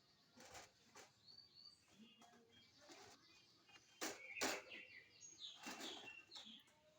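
A small bird chirping in short, high chirps, with a couple of sharp clicks about four seconds in.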